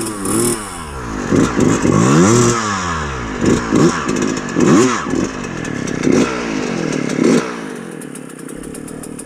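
Dirt bike engine revved hard in repeated short bursts, the revs rising and falling again and again as the rider works the clutch and throttle to pop the bike over a log, then settling to a steadier, quieter run near the end.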